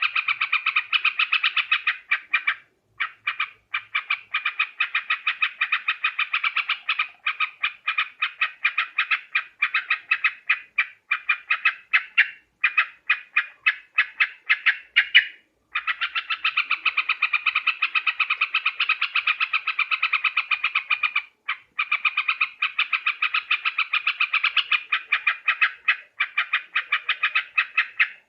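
Yellow-vented bulbul (trucuk) calling: a fast, unbroken chatter of short, bright notes, several a second, with a few brief pauses.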